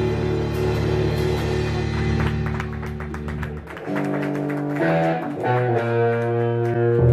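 Live rock band music: a held, ringing chord with regular light percussion ticks fades out about halfway through, then a guitar picks a slow line of single notes.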